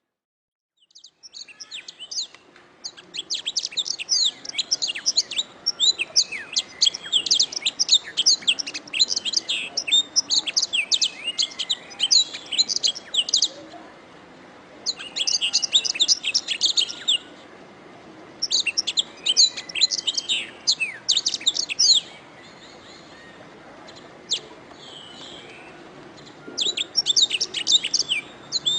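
Domestic canary singing: long phrases of rapid, high-pitched trills and warbles, broken by short pauses, over a faint steady hiss. The song starts about a second in, and there is a longer pause a few seconds before the end.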